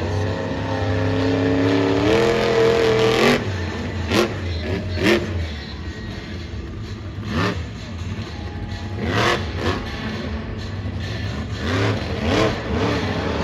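Supercharged, alcohol-fuelled monster truck engine revving hard. A long rising rev over the first three seconds is followed by a series of short, sharp throttle blips every second or two.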